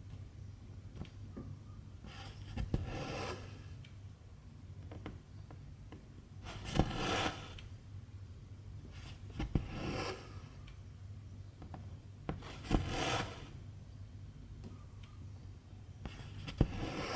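Silk embroidery thread being drawn through cross-stitch fabric: five stitches about three seconds apart, each a sharp click of the needle followed by a swish of thread lasting under a second.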